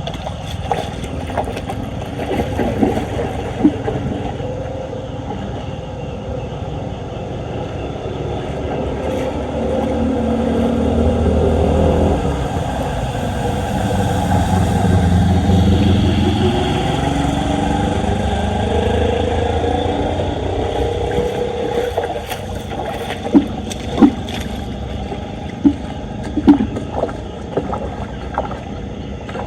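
Floodwater rushing and churning down a street drain, swelling louder partway through and then easing. Several sharp knocks come near the end.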